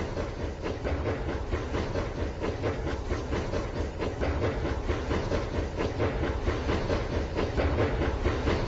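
Toy train running on its plastic track: a steady whirring and rattling, packed with rapid small clicks.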